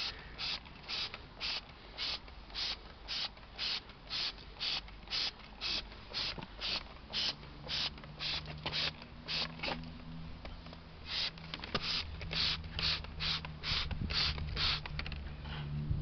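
Hand trigger spray bottle pumped over and over, about two squirts a second, each a short hiss of detergent spray on the greasy engine. A steady low hum comes in about halfway through.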